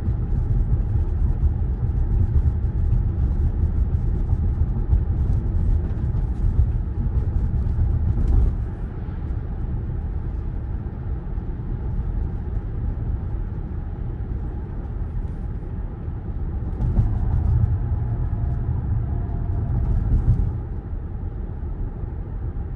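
Low tyre and road rumble heard inside the cabin of a Tesla Model Y, with no engine sound since the car is electric. The rumble is louder for the first eight seconds or so, drops, then swells again for a few seconds before dropping once more near the end.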